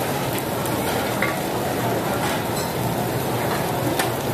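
Oyster omelettes sizzling in oil on a large round griddle, a steady frying hiss, with a few sharp metal clicks of the spatulas about half a second, two seconds and four seconds in.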